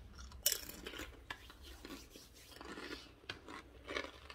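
A person biting into a crisp piece of tortilla and chewing it: one sharp crunch about half a second in, then a run of softer crunches.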